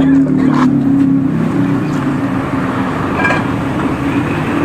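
A motor vehicle engine running steadily amid street noise, with a steady hum in the first second or so.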